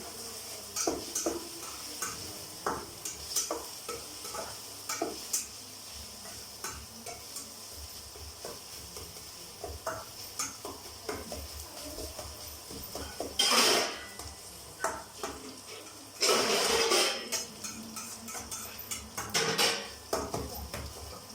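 A spoon stirring and scraping onions frying in a pan for a mutton curry, knocking repeatedly against the metal, over a steady sizzle of hot oil. Two louder bursts of scraping and sizzle come about two thirds of the way through.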